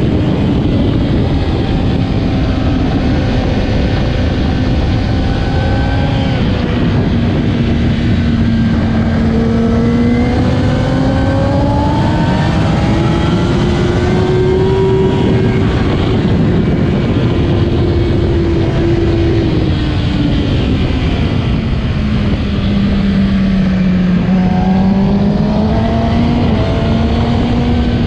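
2008 Kawasaki ZX-10R inline-four superbike engine at racing pace, its note climbing and falling with the throttle and stepping through gear changes. Under it runs a steady, loud rushing noise.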